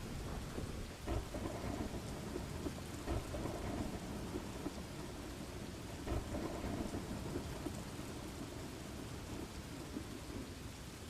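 Steady rain with low rumbling thunder, a continuous rainstorm ambience.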